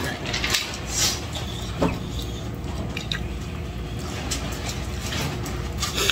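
A person eating roast duck with his fingers: scattered wet chewing and lip-smacking clicks, with light handling of a plastic takeout container, over a steady low hum.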